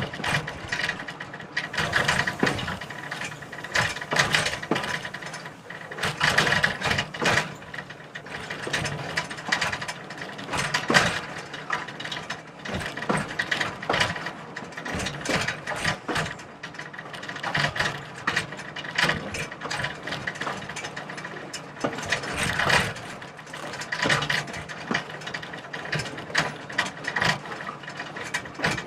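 A heritage train rolling slowly along the track, its wheels and car fittings clanking and rattling continually with irregular sharp knocks.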